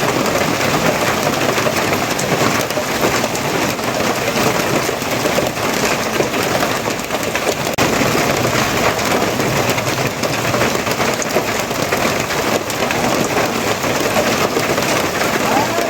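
Steady, heavy rainfall: a dense, even patter of raindrops that holds at one level throughout.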